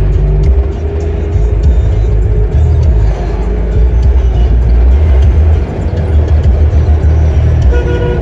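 Loud, steady low rumble of road traffic and a moving vehicle, with wind buffeting the microphone. A steady pitched tone starts near the end.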